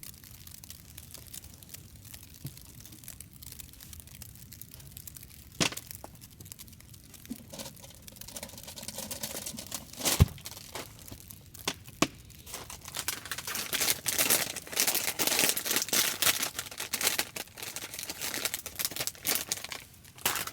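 Crinkling, rustling and tearing of something being handled: a few sharp clicks first, then dense crinkling for the last third.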